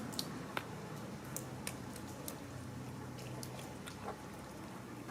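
Cats eating food: soft, irregular chewing and smacking clicks.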